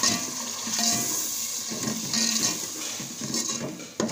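Onion, tomato and spice masala frying in oil with a splash of water in a metal pot, sizzling and bubbling as a metal spoon stirs and scrapes through it.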